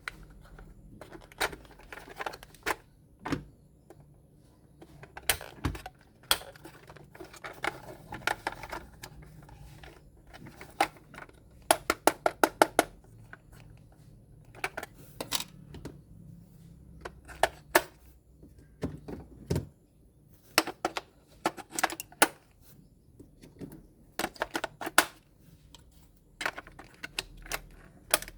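Irregular sharp clicks, taps and light plastic clatter from toys and their packaging being handled, with a quick run of about eight clicks partway through.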